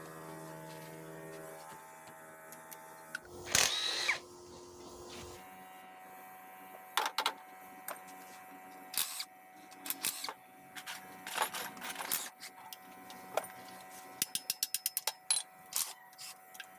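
Hand and power tools at work on an engine: a power tool whirs steadily for about three seconds, then a loud burst of noise. Scattered metal knocks follow, and a quick run of about ten clicks comes near the end.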